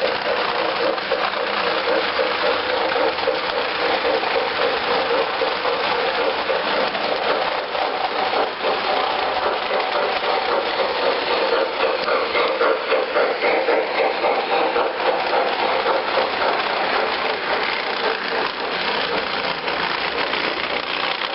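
Model train running on its track: a steady, continuous rattling hum of wheels and motor.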